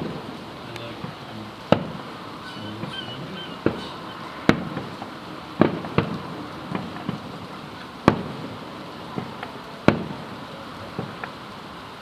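Fireworks exploding: a string of sharp bangs at irregular intervals, about eight loud ones and several smaller pops, each with a brief echoing tail.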